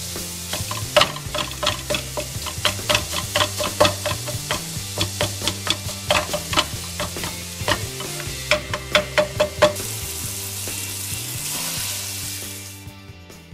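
Plastic Hackit masher scraping and tapping against a non-stick frying pan as it breaks up mince cooking over a sizzle, with quick irregular taps. The taps stop about ten seconds in, the sizzle carries on, then everything fades out near the end. Background music plays underneath.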